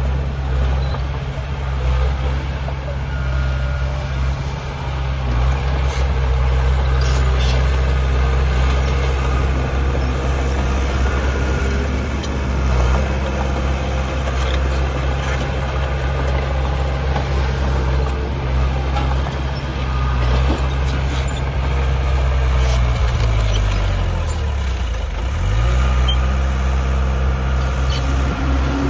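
Heavy diesel engine of earthmoving machinery running steadily under work, with scattered metallic clanks. About 23 seconds in, the engine note drops, then picks back up a couple of seconds later.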